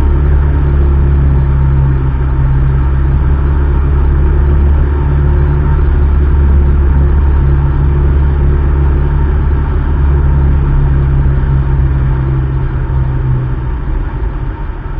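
Cessna 152's Lycoming O-235 four-cylinder piston engine and propeller droning steadily in flight. Near the end the drone drops slightly and wavers.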